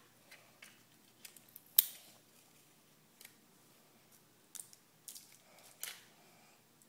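Tape and paper being handled: a scatter of faint, short clicks and snips, with one sharper snap just before two seconds in.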